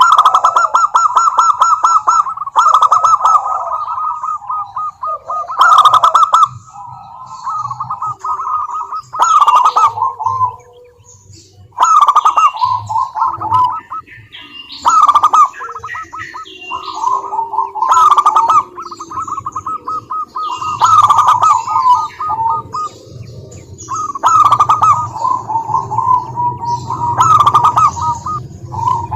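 Zebra doves singing: loud bouts of rapid, rolling staccato cooing, repeated every few seconds with short pauses between.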